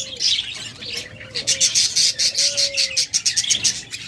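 A flock of caged budgerigars chattering with dense, rapid chirps, while doves give several long, low coos underneath, each about a second long and sliding slightly in pitch.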